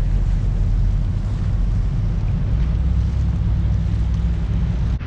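Trawler's inboard engine running steadily at low channel speed, a low drone, with wind buffeting the microphone.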